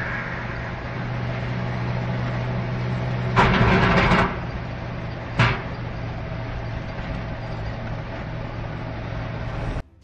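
Motor vehicle engine running steadily. A loud, rough noise lasting about a second comes in about three and a half seconds in, and a single sharp bang follows about two seconds later.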